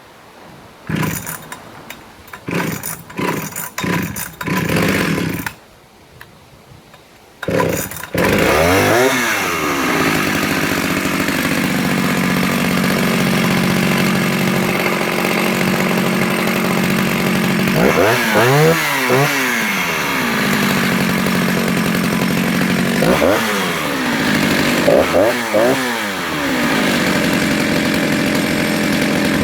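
Vintage Jonsered 49SP two-stroke chainsaw being pull-started on part choke: several short pulls in the first few seconds, then it starts about eight seconds in and keeps running. It settles from a fast idle and is revved up and back down several times.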